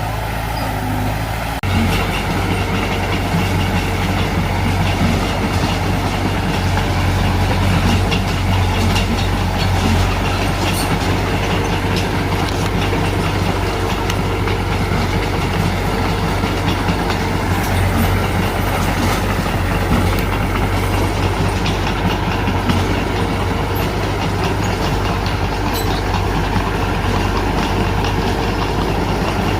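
Crawler bulldozer's diesel engine running steadily under work, with a rapid irregular clatter from the machine, picking up in level about two seconds in.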